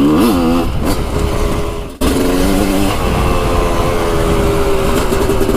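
Dirt bike engine running under the rider while trail riding, revving up and back down near the start, then running steady after a brief break about two seconds in.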